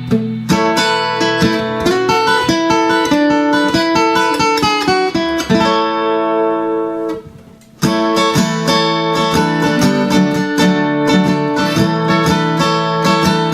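Seagull Coastline S6 Burst acoustic-electric guitar played through its built-in pickup into a Fender KXR 60 amp: chords strummed and picked. About six seconds in, a chord is left to ring and fade, and the playing starts again just before the eight-second mark.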